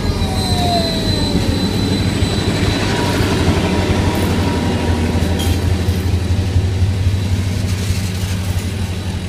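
Bauxite freight train rolling past, a steady heavy rumble of wagons on the rails, with a thin falling squeal of wheels near the start.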